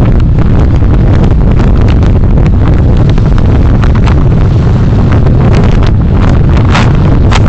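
Car driving, heard through a dashcam: loud, steady low road and engine rumble with wind buffeting the microphone, broken by many short irregular knocks and rattles.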